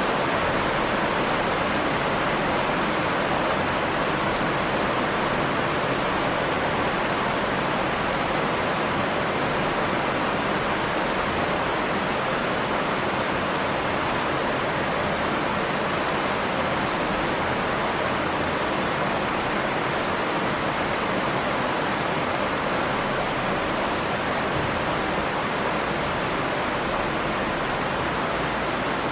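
Steady rain falling, an even, unbroken hiss of water with no thunder or other distinct events.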